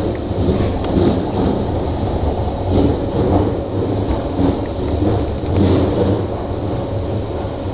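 Hanshin electric train running through a subway tunnel, heard from inside the front car: a loud, steady rumble of wheels on rail with a lighter clatter on top.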